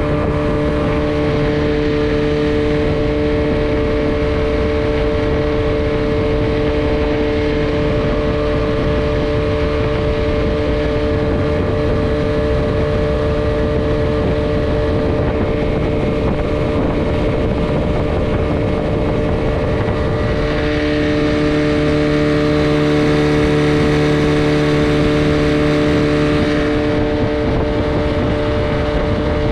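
Old Mercury 9.8 hp two-stroke outboard running at a steady cruising speed while pushing a small jon boat. It hums evenly, freshly rebuilt and running smoothly. It gets louder for about six seconds past the twenty-second mark, then settles back.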